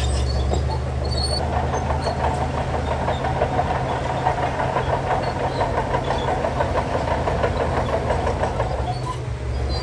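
Heavy diesel construction machinery running steadily under load, a low engine drone with continuous metallic clatter over it.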